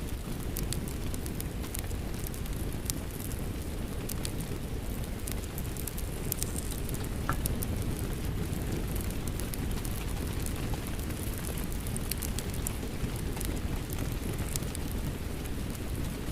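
Steady rain mixed with a crackling wood fire: an even low rush of rain under frequent sharp pops and crackles from the burning logs.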